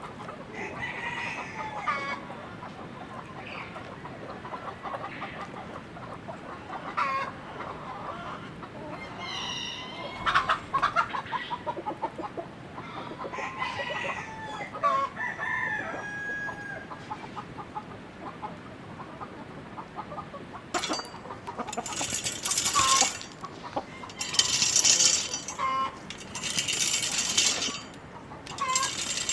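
Chickens clucking, with a rooster crowing. In the second half, several loud bursts of rustling, scratching noise, each a second or two long, sound over the calls.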